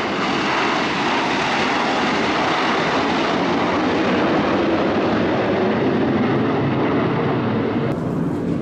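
Steady jet noise from the Frecce Tricolori's Aermacchi MB-339 jet trainers flying over. The higher hiss drops away abruptly near the end.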